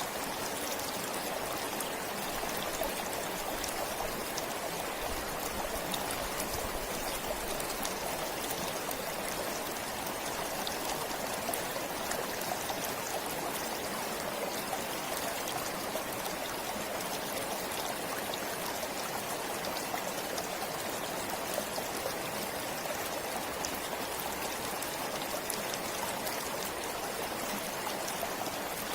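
A stream flowing steadily: an even rush of running water with fine splashes and trickles.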